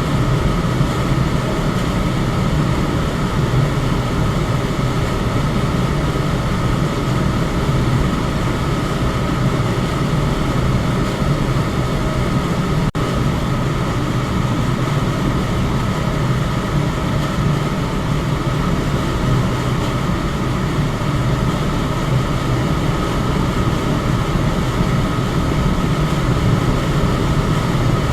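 Electric fan running steadily: a continuous whooshing rush of air over a low motor hum, with a faint steady higher whine. The level dips for an instant about halfway through.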